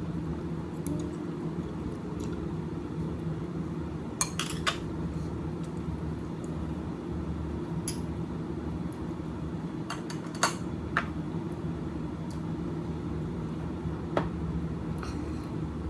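Cutlery and dishes clinking at a meal table: a few sharp clinks, a pair about four seconds in, another pair about ten seconds in, and one near the end, over a steady low room hum.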